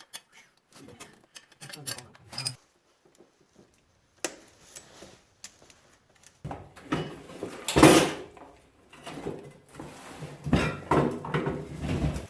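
Metal parts and tools clinking and knocking as they are handled, sparse at first and then busier and louder from about halfway, with the loudest knock around eight seconds in.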